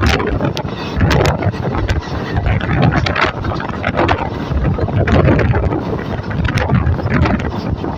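Train in motion heard from on board: a steady heavy rumble with frequent rattling knocks, and wind buffeting the microphone.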